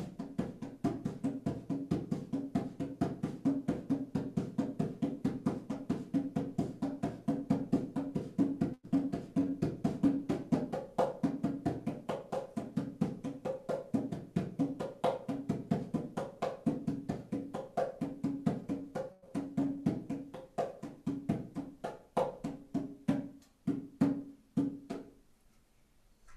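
A drum beaten by hand in a fast, steady rhythm, each stroke with the same low pitch. The drumming stops about a second before the end.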